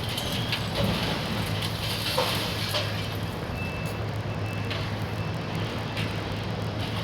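Diesel engine of a demolition excavator running steadily as it pulls down a wall, with scattered knocks and crunches of breaking debris. A short high beep sounds around the middle.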